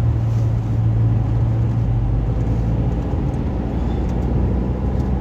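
Car driving, heard from inside the cabin: a steady low engine and road hum.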